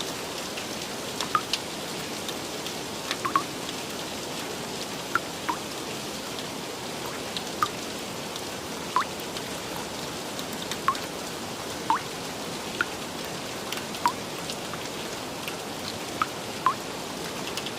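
Steady rain hiss with single heavier drops landing as short, pitched plinks roughly every second or two.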